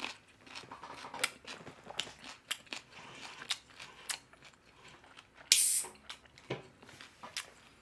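Close-miked chewing of crispy boneless soy-sauce fried chicken, with a run of small crunches. A short, loud hiss comes about five and a half seconds in.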